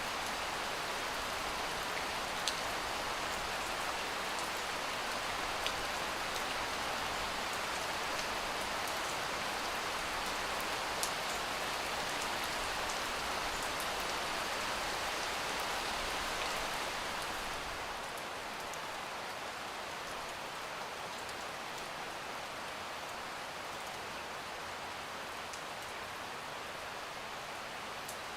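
Steady rain: an even hiss with a few sharp, separate drop taps, turning a little softer about two-thirds of the way in.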